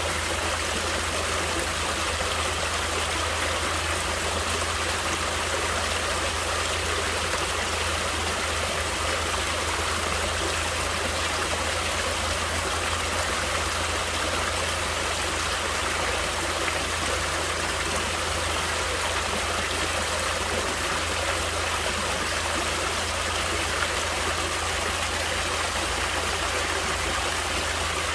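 Natural stream water flowing steadily, an even rush of running water that does not change.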